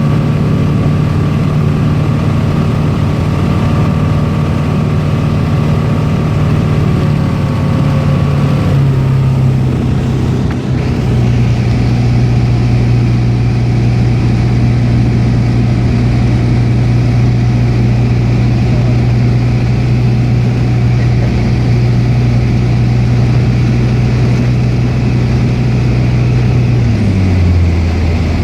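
Tecnam P92 Echo light aircraft's engine and propeller running steadily. The pitch steps down about a third of the way in and again near the end as the power is reduced.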